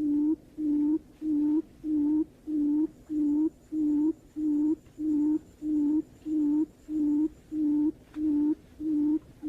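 Barred buttonquail call: a steady series of short, low hooting notes, about two a second, used as a lure call for the bird.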